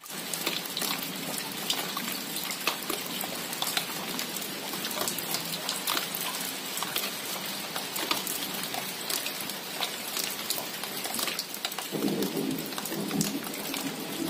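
Steady rain falling on a leafy shrub: an even hiss dotted with many sharp individual drop hits. Near the end a lower sound comes in underneath the rain.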